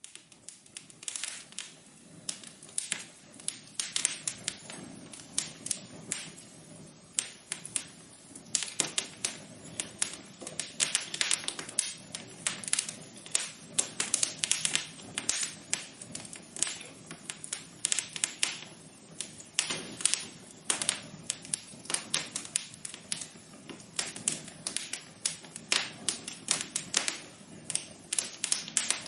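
Wood fire crackling in a fireplace: irregular sharp pops and snaps, several a second, over a soft low rush of flame. It cuts in suddenly at the start.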